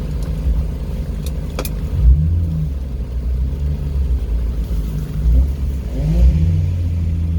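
Car engine running at low speed, with two brief throttle blips about two and six seconds in, and a few sharp clicks early on.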